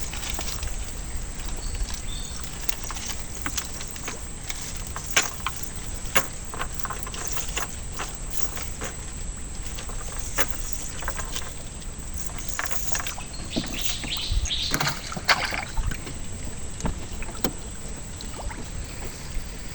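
Scattered knocks and splashes of water around a small boat, over a steady hiss.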